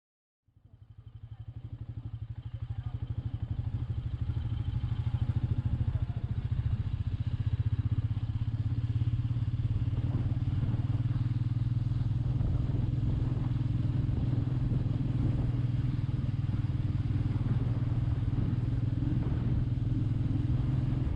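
Royal Enfield Meteor 350's single-cylinder engine running steadily with a low, even pulse while riding, fading in over the first few seconds.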